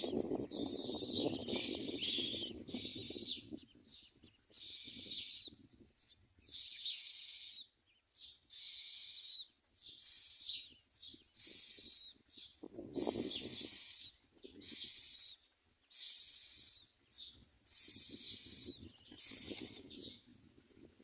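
Common myna nestlings begging with harsh, hissing, high-pitched calls in short repeated bursts, about one a second, as they wait to be fed. A rustle of wings or nest material sounds near the start and again about halfway through.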